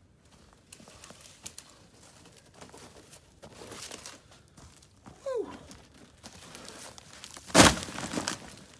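Crunching and crackling of snow and dry wood as firewood is gathered, with one loud sharp crack or thud near the end.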